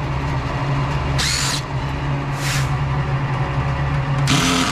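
Cordless drill-driver run in three short bursts of about half a second each, over a steady low hum.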